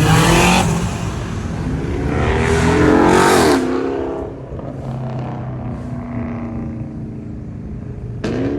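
Car engine revved hard, its pitch climbing to a loud peak and dropping off about three and a half seconds in, then running lower, with another sharp rev near the end.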